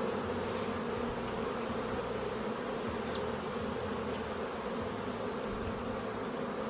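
Honey bees buzzing around an open hive, a steady hum of many bees. A brief high falling note sounds about three seconds in.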